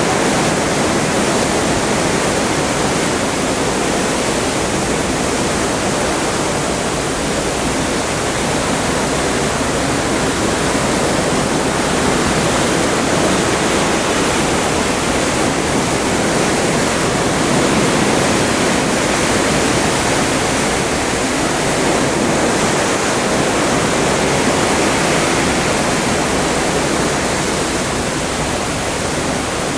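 Atlantic Ocean water rushing past the side of a moving cruise ship: a steady, loud rush that swells and eases slightly every few seconds.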